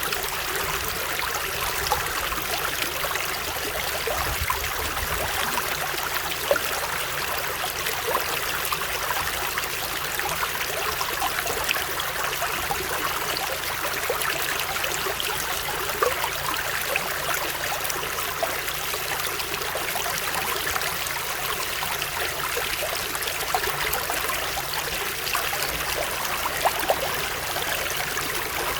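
Running water of a stream flowing steadily, an even rushing sound with occasional brief splashes.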